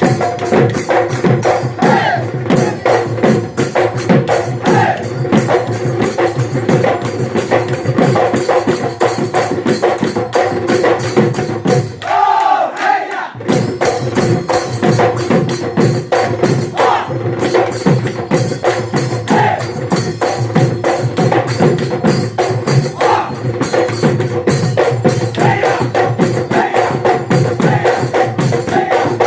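Bihu husori troupe performing: dhol drums and cymbals beating a fast, steady rhythm under a group of voices singing and calling out. The drumming breaks off for about a second near the middle, then resumes.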